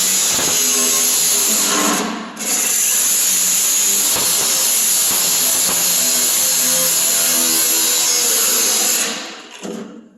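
A power tool runs steadily with a high whine, dropping out for a moment about two seconds in and cutting off near the end. A melody of music plays underneath.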